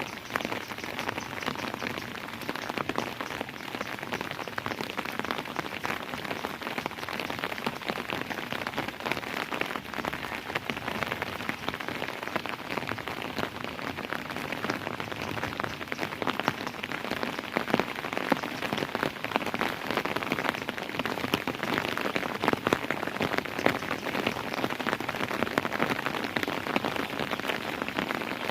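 Steady rain falling on a surface, a dense patter of many individual drops hitting.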